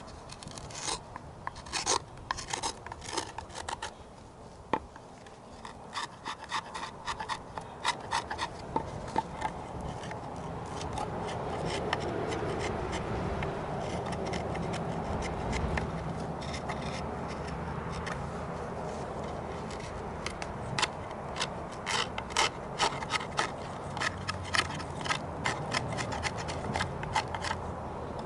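Hand tool scraping wood in quick, irregular strokes as a wooden dish is worked by hand. A steady rushing noise swells in the middle, while the scraping strokes thin out.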